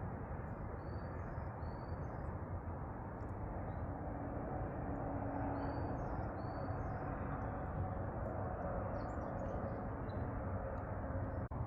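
Steady outdoor background noise with faint, short bird chirps that recur every second or so, often in pairs.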